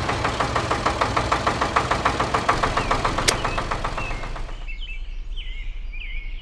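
Small diesel engine clattering at idle with a fast, even knock, which cuts off abruptly about three quarters of the way through. Birds then chirp a few times over a low hum.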